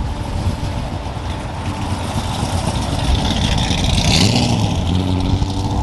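Car engine running loud and revving, with a heavy rush of exhaust noise. The pitch climbs about halfway through.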